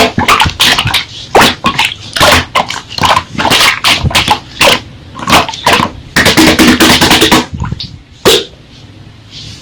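Slime being squeezed and poked by hand, a rapid, irregular run of loud sticky pops and squelches. A longer squelch carrying a steady tone comes about six seconds in, and it goes quiet after about eight seconds.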